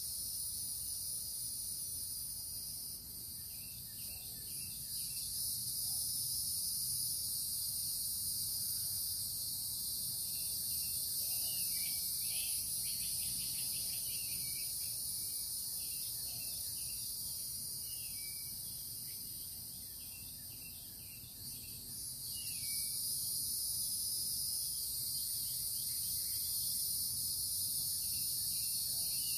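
A steady, high-pitched insect chorus that eases briefly twice, with short bird chirps scattered through it.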